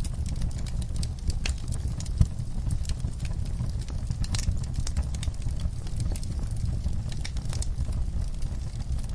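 Wood fire burning in a fireplace, a low steady rumble under irregular crackles and snaps of the logs, with one sharper pop about two seconds in.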